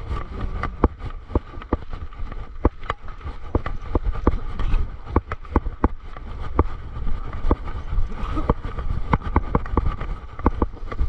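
Mountain bike riding over a rough trail: irregular sharp knocks and rattles as the bike hits bumps, several a second, over a steady low rumble of tyres and wind on the microphone.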